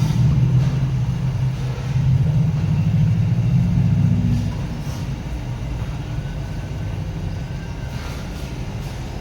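Huebsch washing machine running with a steady low rumble, which eases off noticeably about four seconds in.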